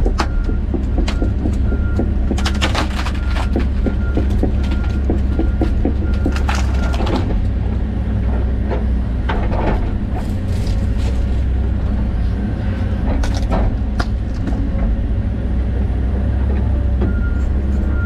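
John Deere 130G excavator's diesel engine running steadily, with repeated bursts of cracking and crashing as trees and brush are torn out. Its beeping travel alarm sounds in the first couple of seconds and again near the end.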